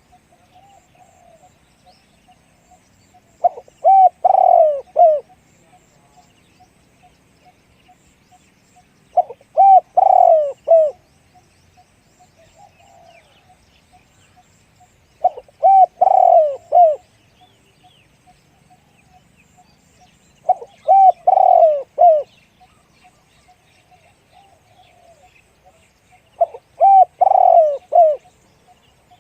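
Spotted dove cooing its phrase five times, about every six seconds, each phrase a quick run of several deep coos lasting under two seconds. Faint chirping of small birds between the phrases.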